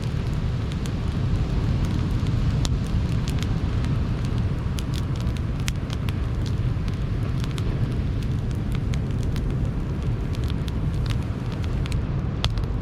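Campfire wood crackling and popping in irregular sharp snaps over the steady low rumble of sea surf.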